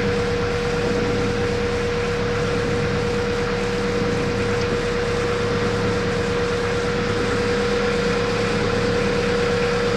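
Canal boat's engine running steadily: an even low hum with a constant whine above it.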